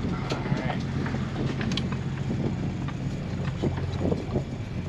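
Sailboat's engine running steadily while motor sailing, a low even drone, with a few faint clicks from the deck gear.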